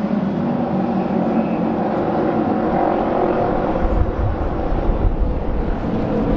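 Auto race motorcycle engines running hard together around the oval, a steady dense engine sound, with a low rumble swelling about four seconds in.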